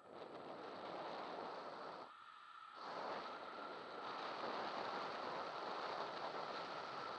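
Wind rushing over the microphone of a camera on a bicycle on a fast road descent: a steady rushing noise that cuts out briefly about two seconds in and comes back slightly louder.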